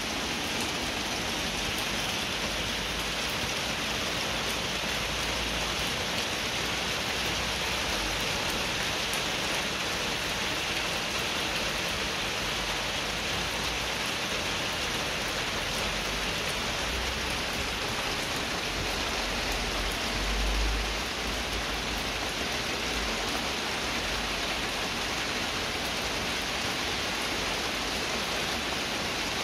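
Steady rain falling on a puddle and wet concrete pavement: an even hiss of many drops splashing on water. Low rumbles come and go underneath, strongest about two-thirds of the way through.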